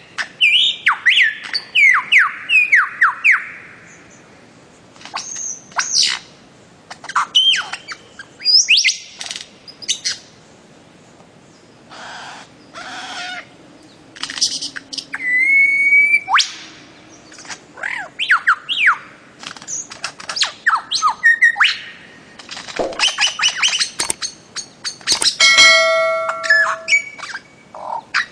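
Bird-of-paradise calling: loud, sharp calls that sweep downward in pitch, mixed with harsh squawks. They come in quick runs of several calls at a time, with pauses of a second or two between runs. Near the end there is a brief held, nasal note.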